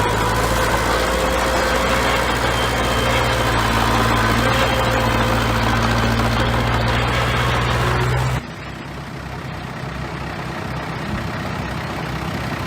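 Bulldozer's heavy diesel engine running steadily, with faint whining tones over its drone. About two-thirds of the way through, the sound cuts off suddenly to a quieter engine running.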